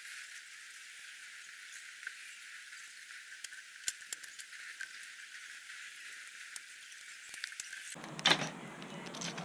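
Wood campfire crackling: scattered sharp pops over a thin hiss, with a few louder knocks near the end.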